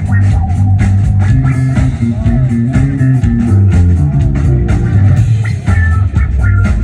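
Live band playing an instrumental rock jam: electric guitar and bass guitar over a steady drum beat, loud and unbroken.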